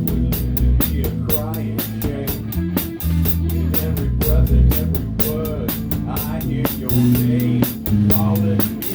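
Live rock band playing: a Pearl drum kit keeps time with steady cymbal strokes, several a second, and its snare is damped with a towel, under electric guitars and bass guitar. A melodic line bends up and down in the middle range above them.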